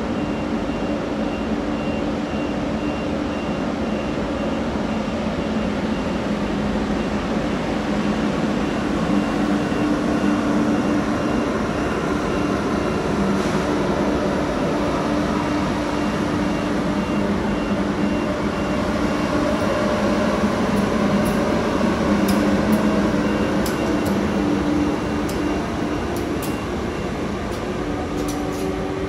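SJ X2000 electric train pulling slowly out of the station, a steady electric hum with a faint high whistle running through it. Sharp clicks come from the wheels and rails in the last several seconds.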